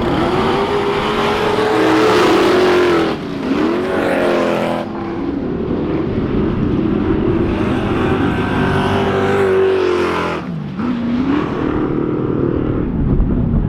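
Motocross dirt bike engine under hard throttle, its pitch rising and falling. The throttle chops off sharply twice, about three seconds in and again near ten seconds, then picks back up.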